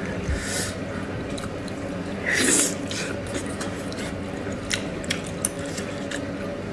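Close-up mouth sounds of someone chewing gelatinous braised pig's trotter: wet smacks and small clicks, with one louder wet sound about two and a half seconds in. A steady low hum sits underneath.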